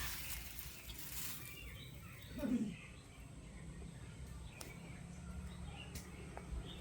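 Two kittens play-fighting: a rustle of scuffling at first, then one short cry falling in pitch about two and a half seconds in. Birds chirp faintly in the background.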